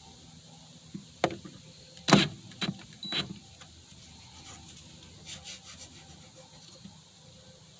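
A handful of sharp wooden knocks and clatters, wood pieces or tools handled on a workbench, the loudest a little after two seconds in, followed by a few faint ticks.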